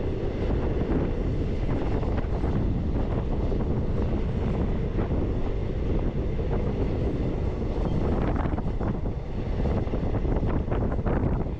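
Passenger train running along the line, heard from on board: a steady low rumble of the coaches with wind buffeting the microphone, and a few short clatters in the second half.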